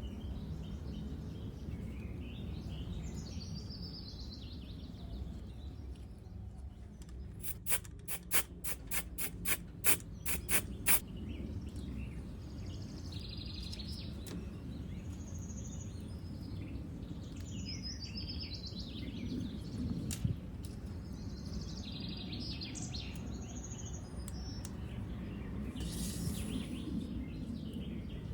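Birds chirping over a steady low background noise, with a run of about a dozen sharp clicks, roughly three a second, starting about eight seconds in.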